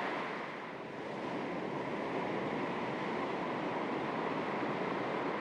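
Small waves lapping on the shore of a calm sea: a steady wash of surf that eases about a second in and swells back, with wind on the microphone.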